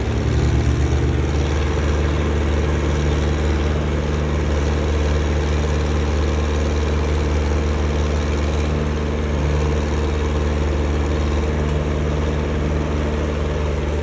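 Heavy diesel engine running steadily at a constant speed, with a low, even drone and no change in pitch.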